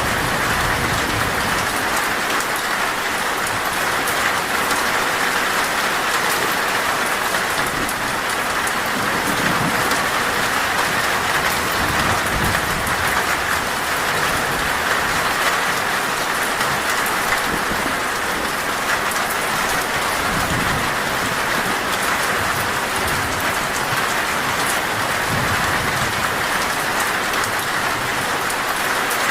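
Heavy torrential rain drumming steadily on a metal roof, with faint low rumbles of thunder now and then.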